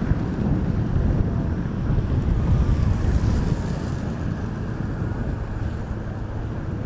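Wind buffeting the microphone: a steady, low rumbling roar.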